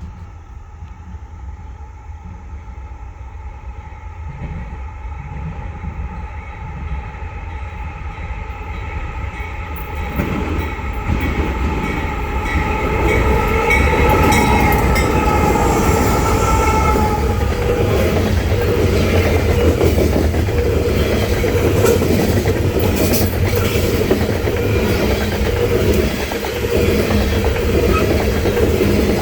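Diesel-electric locomotives of a Norfolk Southern coal train approaching and passing, their steady whine growing louder and dropping slightly in pitch as they go by about halfway through. Loaded coal cars then roll past with a heavy rumble and wheels clicking over the rail joints.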